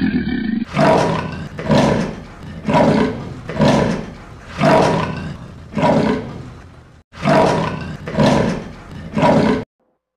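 A big cat snarling and roaring in nine harsh bursts about a second apart, with a slightly longer pause near the middle, then cutting off sharply.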